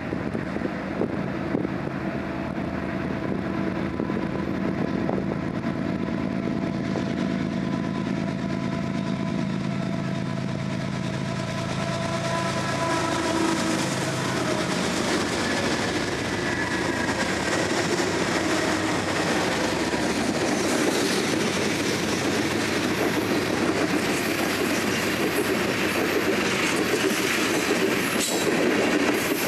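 BNSF train passing: a steady locomotive drone with several held tones for the first dozen seconds or so, then the rolling noise of the cars on the rails builds and stays loud to the end.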